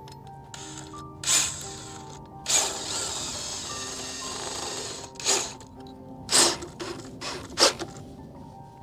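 Background music over tool noises while a mount is fitted. A steady mechanical whirr runs for about two and a half seconds, starting near the middle, and several sharp clicks and clacks follow.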